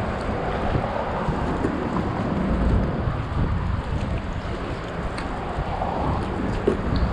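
Wind buffeting the microphone in an uneven low rumble, over water splashing from a kayak paddle's strokes.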